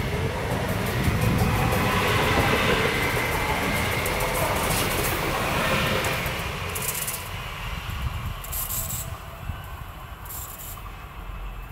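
Electric multiple-unit regional train running past close by with wheels clattering on the rails, then fading as it recedes into the distance, with a low wind rumble on the microphone.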